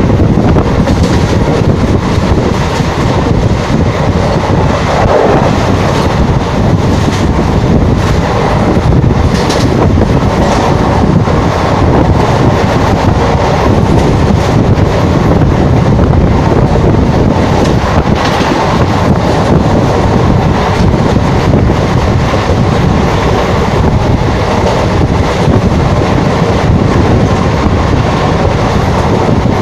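Indian Railways passenger coach running fast, heard from its open doorway: a loud, steady rumble and rattle of the wheels on the rail, with wind rushing past the open door.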